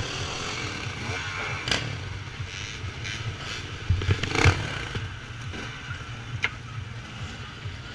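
Enduro motorcycle engine idling steadily, with a few sharp knocks, the loudest about four seconds in.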